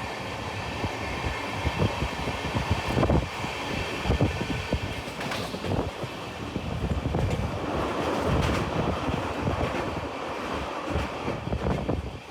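Passenger train running on the rails, with a continuous rumble and an irregular clatter and knocking of the wheels over the track.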